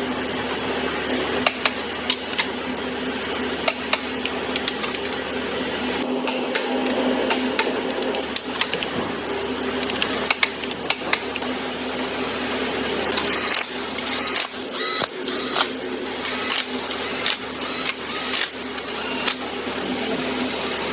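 Assembly-line machinery running with a steady hum, broken by frequent sharp metallic clicks. About two-thirds of the way in, short bursts of a power tool start and stop again and again.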